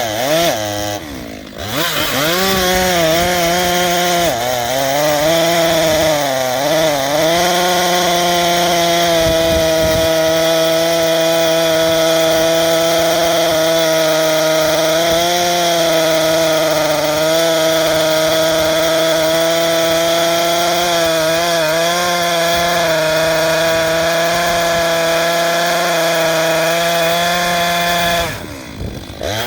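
Two-stroke chainsaw cutting through dry white oak at high revs, its pitch sagging under load at times. The engine eases off briefly about a second and a half in and again near the end.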